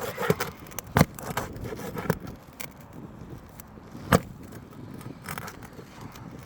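Metal roofing tool scraping and prying under asphalt shingles to work nails loose, with small clicks and crackles. Two sharp knocks stand out, about a second in and about four seconds in.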